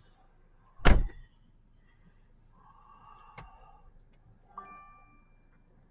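A car door shutting with a heavy thud about a second in, then, near the end, a click followed by a short single-tone electronic chime from the car.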